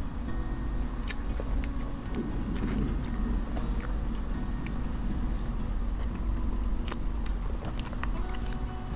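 Scattered light clicks and clinks of kitchen handling over a steady low rumble.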